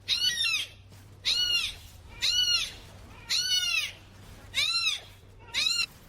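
A high-pitched animal cry that rises and falls in pitch, repeated six times about once a second.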